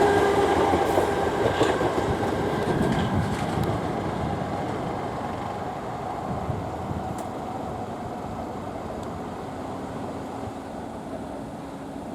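A South Western Railway electric multiple-unit train, a Class 456 coupled to a Class 455, passing by and running away into the distance. A steady whine fades out over the first few seconds, with a few light clicks from the wheels on the rails. The sound grows steadily quieter.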